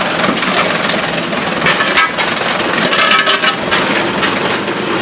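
Fodder cutter chopping dry corn stalks with a continuous crackling crunch, powered by a 5 hp Challenge engine. The crunching swells twice, about two and three seconds in.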